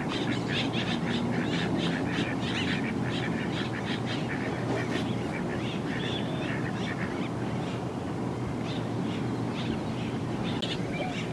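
Many birds calling at once, a dense stream of short overlapping calls with no let-up.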